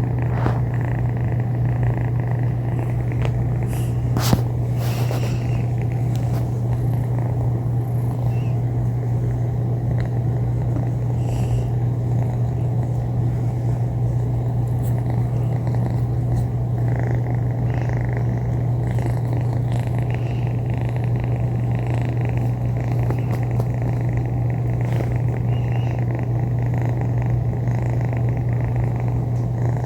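Kitten purring, a low steady purr that runs on without a break, with one brief click about four seconds in.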